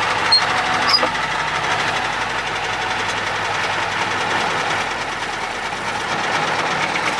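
Cummins 903 V8 diesel in a Ford LNT 9000 truck running steadily, with two short clicks in the first second.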